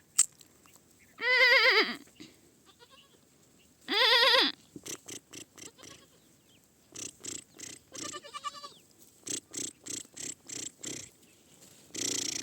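A young goat bleating: two loud, wavering bleats, about a second in and again near four seconds, then a fainter one about eight seconds in. A run of short scratchy noises comes between and after them.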